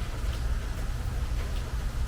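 Steady rain on a metal porch roof: an even hiss under a low rumble, with scattered single drop ticks.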